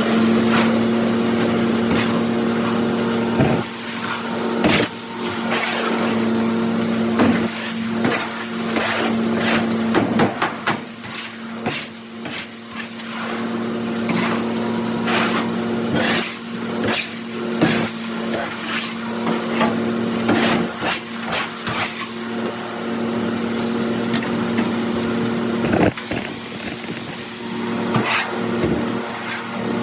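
Tractor-driven New Holland 355 grinder-mixer hammermill running steadily while grinding corn. A constant hum is overlaid with frequent sharp knocks and rattles.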